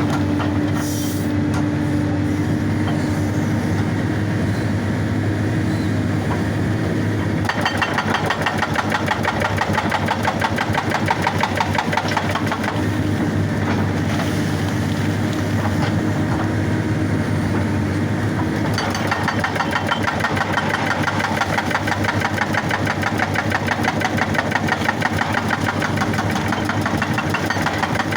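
Excavator diesel engine running steadily. About a quarter of the way in, a hydraulic rock breaker joins it, hammering rock in rapid, even blows.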